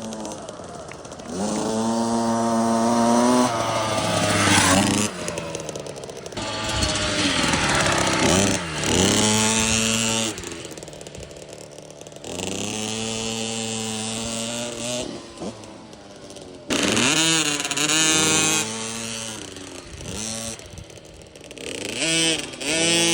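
Motocross dirt bike engine revving hard in repeated surges, its pitch climbing and then dropping as it shifts and eases off, about six times, with quieter moments in between.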